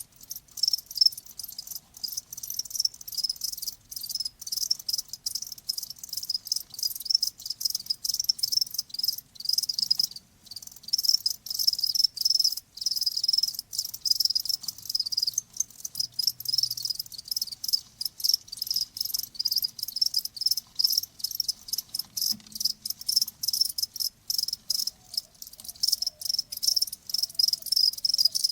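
Crickets chirping: many fast, high-pitched chirps in quick succession, broken by short pauses.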